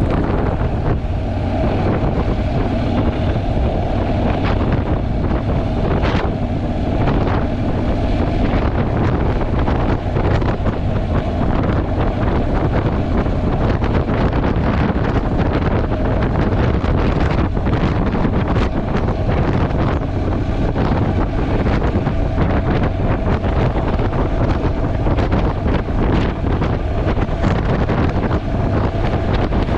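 Steady, loud wind buffeting on a GoPro's microphone while riding a Honda NC750X motorcycle at speed, with the bike running faintly beneath the wind.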